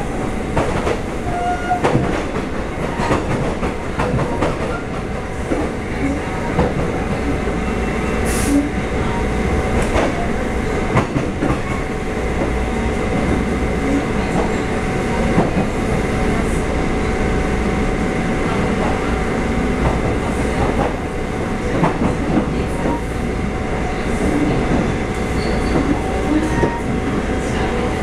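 Taiwan Railway EMU400 electric multiple unit running, heard from inside the car: a steady rumble and hum of the train on the move, with wheels clicking irregularly over the rail joints.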